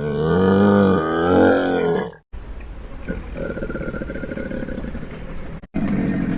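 A large animal roaring, loud and wavering in pitch, for about two seconds, then a sudden cut to a quieter, steady rumbling background.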